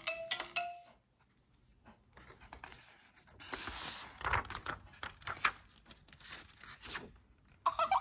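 A picture-book page being turned by hand: paper rustling with light handling knocks, starting about three seconds in.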